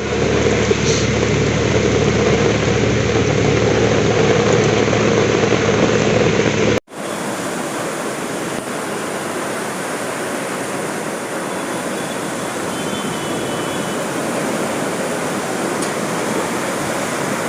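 Steady rushing noise of heavy rain and running water. About seven seconds in it cuts off abruptly to a second, similar rain recording. A low steady hum runs under the first part.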